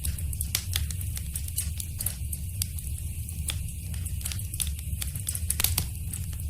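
Wood fire crackling in a fireplace: irregular sharp pops and snaps over a steady low rumble of the flames, with the loudest cluster of pops about five and a half seconds in.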